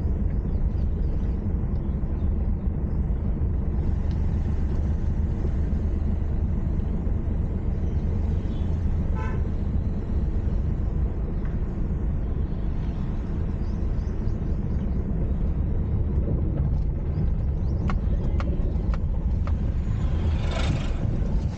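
A car driving along a village road, with a steady low rumble of engine and road noise. A vehicle horn toots briefly near the end.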